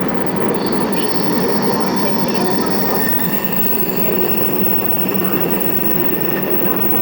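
Keiyo Line electric commuter train running, heard from aboard: a steady rumble of wheels and motors with thin, high wheel squeal setting in about half a second in and a second squeal tone joining around three seconds in.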